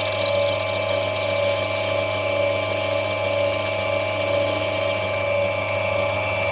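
Lapidary grinding wheel running steadily, with the hiss of an opal held against the wheel as it is ground down; the grinding stops about five seconds in, leaving the motor's hum.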